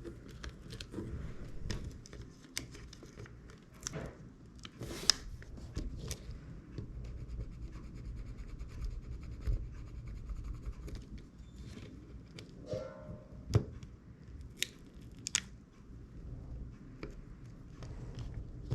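Irregular small clicks, taps and light scrapes of hands and small tools working on an opened iPhone 6s, with a few sharper clicks near the middle.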